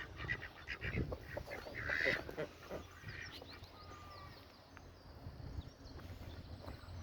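Ducks quacking in a cluster of short calls, loudest about two seconds in, then dying down to a quieter stretch with a few faint high bird chirps.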